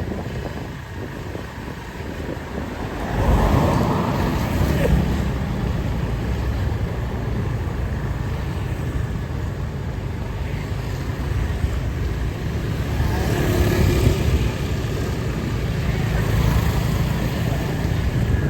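Street ambience dominated by a motor vehicle engine running close by. It gets louder about three seconds in and then holds steady.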